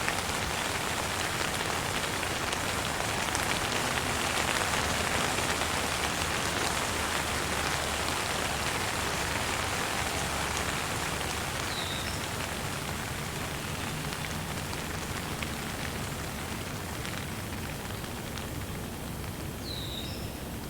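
Gentle rain falling steadily, with a bird chirping briefly twice, about halfway through and again near the end.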